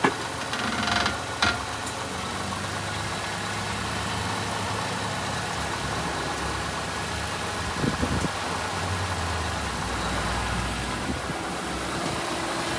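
1995 Toyota Camry idling in drive with a steady engine hum, a short scraping burst about a second in and a sharp click just after, then a thump about eight seconds in followed by a deeper hum for a few seconds. These are the noises being chased, which the owner suspects come from bad CV joints or worn rubber mounts.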